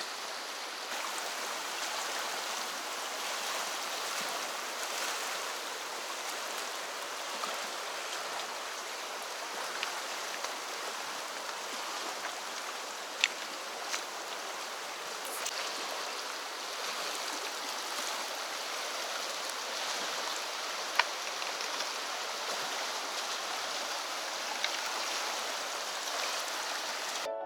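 Mountain river rushing steadily over its bed, an even rush of water, with a few short sharp clicks here and there, two of them louder.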